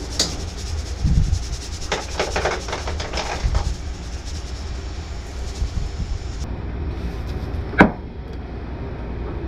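Kitchen handling sounds while a chicken is seasoned: Cajun seasoning shaken from its shaker can in a few quick rattling bursts about two to three and a half seconds in, then one sharp knock near the end, over a steady low rumble.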